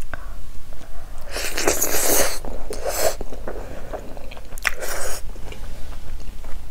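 Close-miked chewing of a hand-fed mouthful of palak paneer, baingan masala and rice, with three louder bursts of mouth noise about a second and a half apart.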